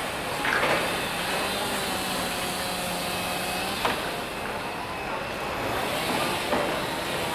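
Steady noise of a heavy vehicle running, with a faint held hum and a few short knocks, about half a second, four seconds and six and a half seconds in.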